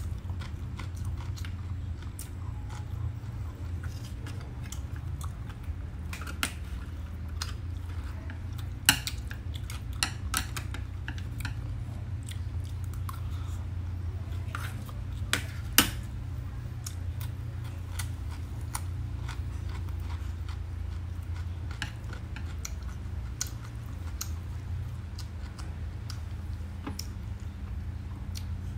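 Close-up mouth sounds of chewing and crunching crispy roast pork and raw vegetables, with many small irregular clicks and two sharper clacks, about nine and sixteen seconds in. A steady low hum runs underneath.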